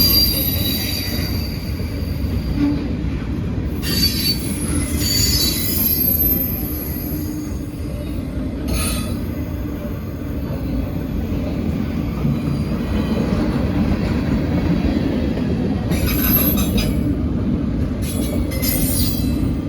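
Freight train rolling past with a steady rumble of wheels on rail, broken several times by high-pitched wheel squeal, around the start, from about four to six seconds in, and again near the end.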